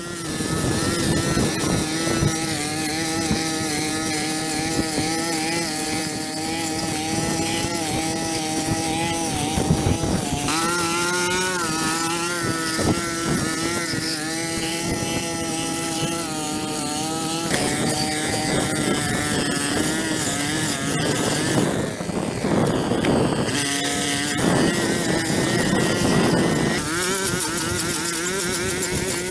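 Small engine of a handheld power tool running at high speed, its pitch wavering slightly. About three-quarters of the way through it falters and drops lower for a moment, then picks back up to speed.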